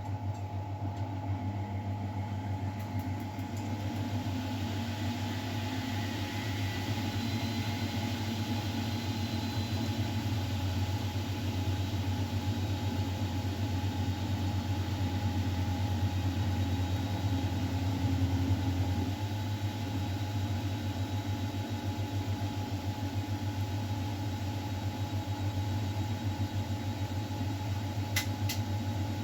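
Miele Novotronic W912 front-loading washing machine running mid-cycle: a steady motor hum and low rumble that grows louder with added hiss a few seconds in, with a couple of faint clicks near the end.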